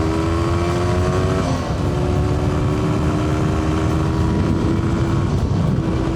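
Air-cooled single-cylinder two-stroke engine of a 1982 Cagiva SX 350 pulling under throttle while riding. Its pitch climbs slowly, dips about a second and a half in, climbs again and breaks off briefly near the end, with a low rush of wind and road noise underneath.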